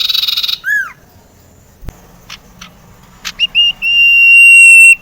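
Common iora (sirtu) singing: a rapid trill that stops at the start, a short arched down-slurred note, a few brief notes, then a long steady high whistle held for about a second that cuts off near the end.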